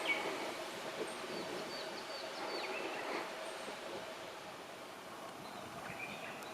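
Outdoor background noise with a faint steady hum and a few short, faint bird calls, including a quick run of high notes about a second and a half in.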